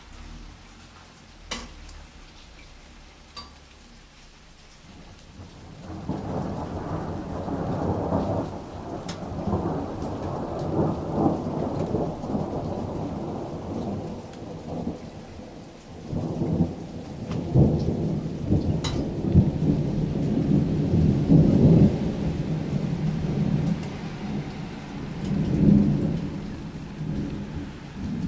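Deep, bassy thunder rolling in about six seconds in and rumbling on, easing briefly about halfway before building again, over steady rain with a few sharp drips tapping close by.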